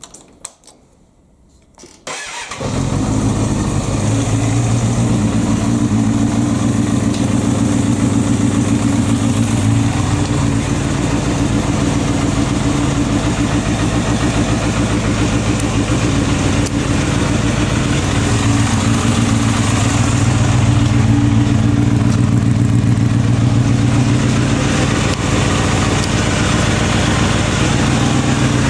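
Kawasaki Balius 250 cc inline-four motorcycle engine with an OVER aftermarket silencer: a few faint clicks, then the engine starts about two seconds in and settles into a steady idle.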